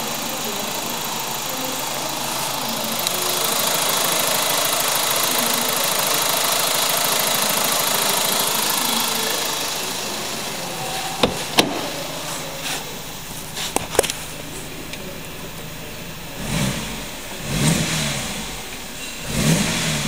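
2007 BMW 3 Series 2.0-litre engine running steadily, with a few sharp clicks partway through, then revved briefly three times near the end.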